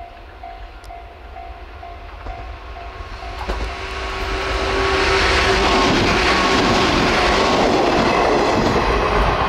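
A level crossing bell dings steadily about twice a second and stops about three and a half seconds in, as a JR Kyushu 103 series 1500 subseries electric train approaches. The train then passes close by, its wheels clattering over the rail joints, growing loud and staying loud to the end.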